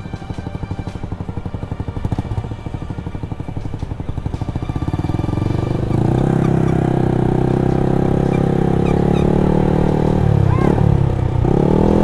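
Motorcycle engine heard from the rider's seat while riding. For the first half it runs at low revs with a fast even pulsing. About six seconds in the revs rise and it pulls steadily, then near the end the pitch drops briefly and climbs again.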